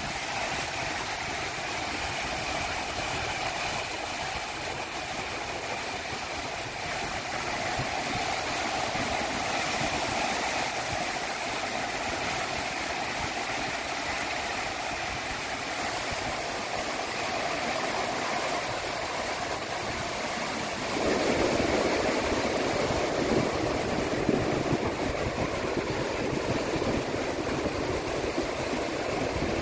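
Sea waves washing on the shore, with wind: a steady rushing that grows louder and fuller about two-thirds of the way through.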